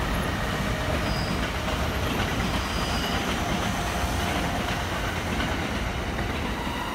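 Electric commuter train passing at close range: a steady rush of wheels on rail with a few faint high tones over it, easing a little as the last car goes by.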